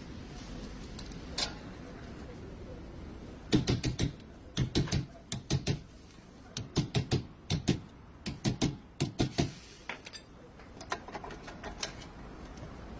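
Hammer knocks: about twenty sharp strikes in quick groups of two to four, starting a few seconds in and stopping a few seconds before the end.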